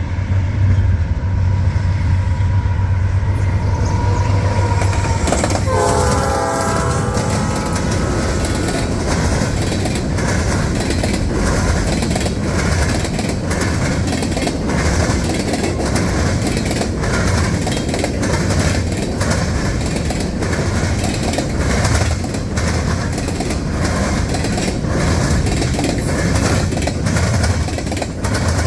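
Norfolk Southern diesel freight train passing close by. The locomotives' engines hum low at first, the air horn sounds a chord for about three seconds some six seconds in, and then the cars roll past, clicking steadily over the rail joints.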